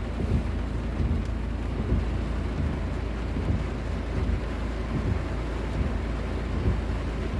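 Heavy rain falling steadily, with a low, gusting rumble of wind on the microphone.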